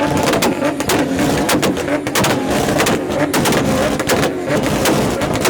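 Car engine revving hard, with many sharp exhaust pops and cracks over the engine's note.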